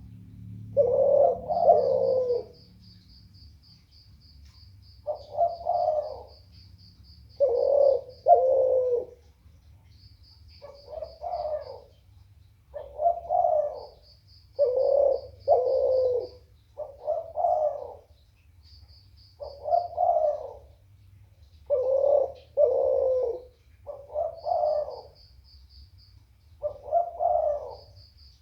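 Dove cooing in repeated low phrases, one or two coos every couple of seconds. Short runs of a faint, fast, high-pitched trill come in between.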